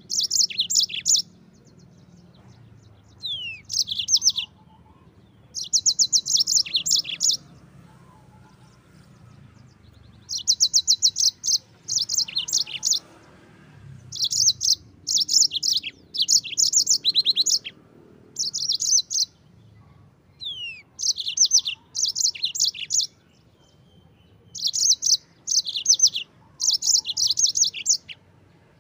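Yellow-fronted canary (Mozambique singing finch) singing a rolling song: short, very rapid high trilled phrases of one to two seconds, separated by brief pauses, some opening with a quick falling whistle.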